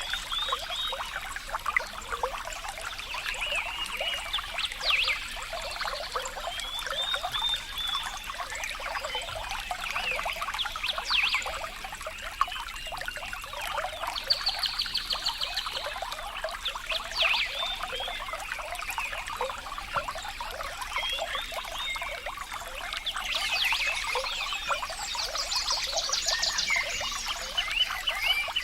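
Water trickling and splashing steadily, with animal calls over it that come as rapid high trills, most clearly about halfway through and again near the end.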